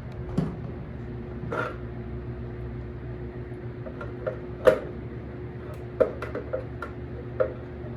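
Scattered sharp clicks and knocks of objects being handled, the loudest nearly five seconds in, over a steady low hum.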